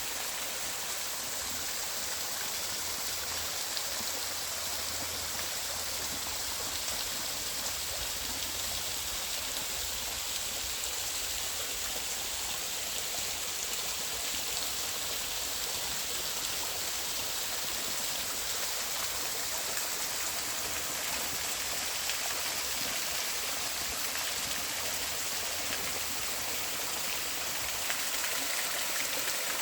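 Creek water cascading over small waterfalls, a steady rushing and splashing flow with a slight swell in loudness near the end.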